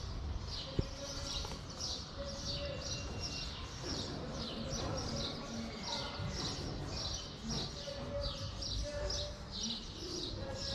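Small birds chirping in a steady run of short, high chirps, several a second, over a low background rumble.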